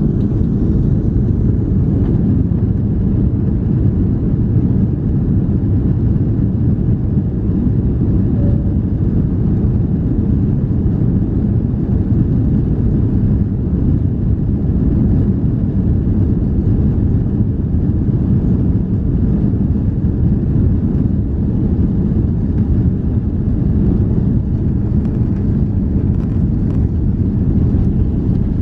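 Steady low roar of an Airbus A340-300's four CFM56 turbofan engines, heard inside the passenger cabin, even in level with no rise or fall.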